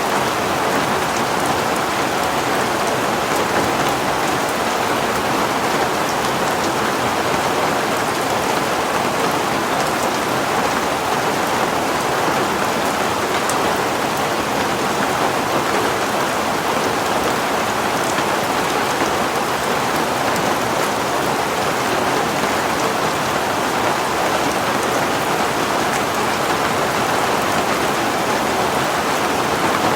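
Heavy rain falling steadily, an even rushing patter with faint scattered drop ticks.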